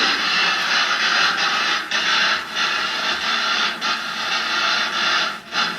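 Spirit box radio sweeping through stations: loud, steady static hiss broken by brief dropouts about once a second.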